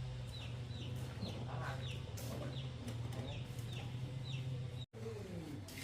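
Chicks peeping: a steady run of short, high, falling peeps, about two a second, over a low steady hum.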